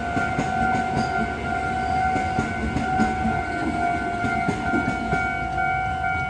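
Electric commuter train passing over a level crossing, its wheels rumbling and clattering on the rails. The crossing's warning bell sounds a steady tone over it throughout. The low train rumble thins near the end as the last car clears the crossing.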